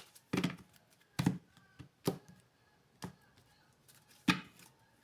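Oracle cards being shuffled and handled on a table: a series of separate soft slaps and taps, roughly one a second.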